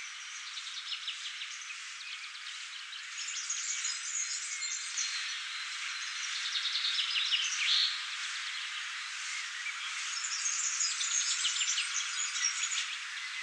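Birds chirping and twittering over a steady background hiss, the sound thin with no low end. A louder call slides down in pitch about seven seconds in.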